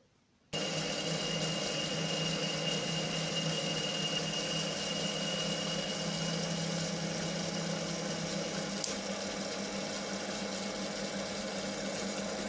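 Homemade lathe running steadily while boring an internal taper into a spindle adapter flange, with a faint high cutting tone through the first half and a single tick about nine seconds in.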